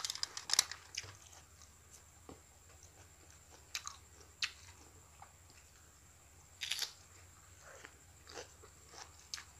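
Close-up crunching and chewing of crisp lettuce salad: loud crunchy bites at the start, around four seconds in and about seven seconds in, with quieter chewing between.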